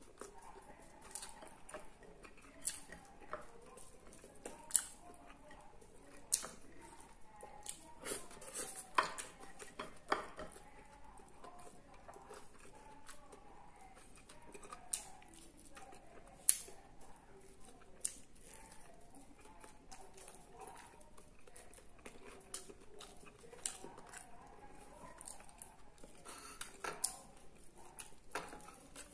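Eating noises from a man eating roast chicken and rice with his hands: chewing and mouth sounds with many scattered sharp clicks, a few of them loud, and light taps of fingers and food on a ceramic plate.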